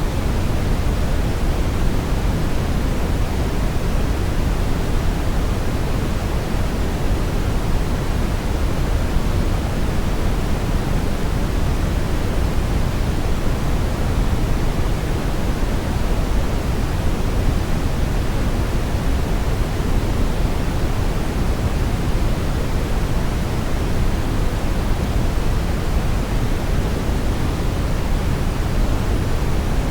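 Steady brown noise: a continuous, even rushing hiss, deepest and strongest in the low end and fading toward the top, with no changes.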